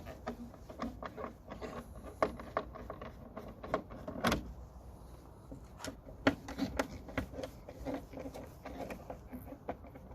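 Irregular small clicks, taps and rattles of hand work on a car's plastic front grille as Torx T20 screws are undone with a screwdriver, a few knocks louder than the rest.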